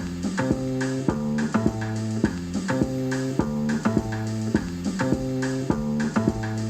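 Acid jazz playing through a Bluetooth speaker: a strong bass guitar line and guitar chords on a steady beat, about two strokes a second.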